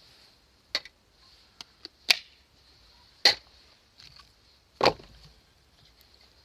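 Firewood being chopped with an axe: four sharp strikes, roughly one every second and a half, with a couple of lighter knocks between them.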